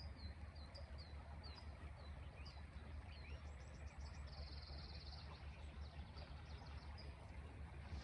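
Birdsong in open country: a quick series of short, high chirps sliding downward, two or three a second, with a brief rapid buzzy trill about halfway through. A low steady rumble runs underneath.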